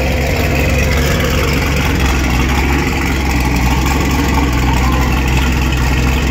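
Twin-turbo Chevrolet Camaro SS's 6.2-litre V8 idling steadily through its quad-tip exhaust.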